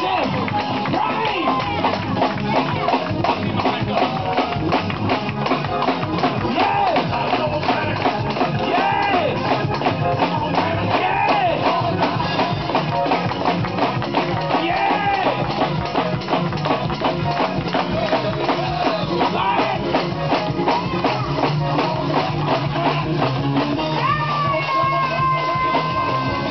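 Live church band playing up-tempo praise music: a drum kit keeping a fast, busy beat, with guitar and voices over it, and one long note held near the end.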